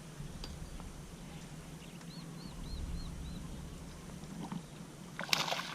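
A bird calls five quick, arched whistled notes in a row over a steady low hum. Near the end comes a sudden loud burst of splashing water.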